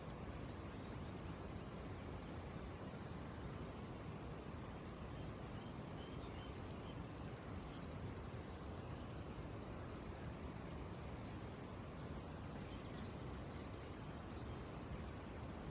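Caged birds and insects chirping: a steady, high-pitched chirring with many short, sharp chirps over it, and a low background hum.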